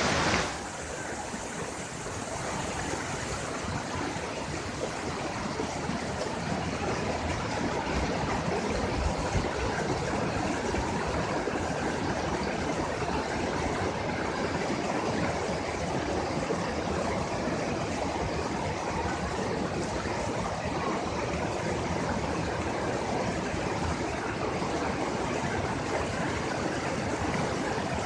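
Steady rush of falling water from the Grojogan Sewu waterfall, growing slightly louder over the first several seconds and then holding even. A brief louder hiss cuts off about half a second in.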